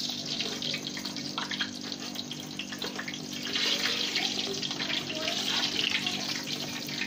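Egg-coated potato and chicken kabab frying in hot oil in a small kadhai: a steady sizzle with crackles, and the metal spatula working against the pan.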